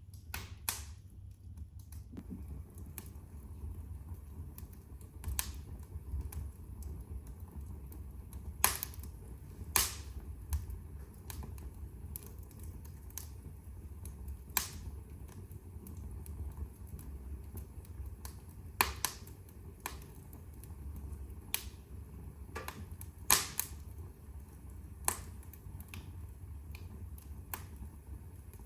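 Wood fire burning in a fireplace: a steady low rumble of flame with irregular sharp crackles and pops from the burning logs, several louder snaps scattered through.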